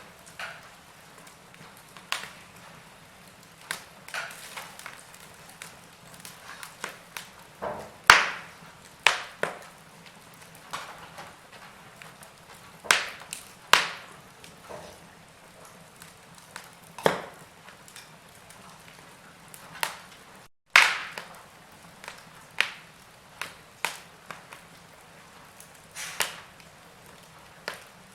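Wood fire in a fireplace crackling: scattered sharp pops and snaps every second or two, some much louder than others, over a faint steady hiss. The sound drops out for an instant about two-thirds of the way through.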